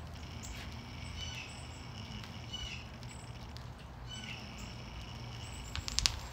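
Small birds chirping in short high calls that repeat every second or so, over a steady low hum. A few sharp clicks near the end.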